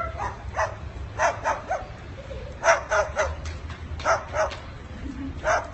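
A series of short barks, coming in quick clusters of two or three.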